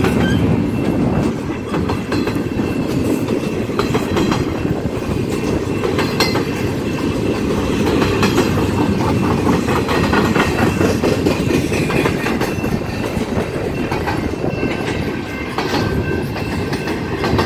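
CSX double-stack intermodal freight train rolling past: container-laden well cars with a steady rumble of steel wheels on rail and a running clickety-clack of wheels over the rail joints.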